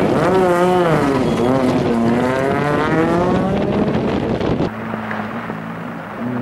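Rally car engine at full throttle, its pitch dipping and climbing again with each gear change. About four and a half seconds in it switches abruptly to a quieter, steadier engine note.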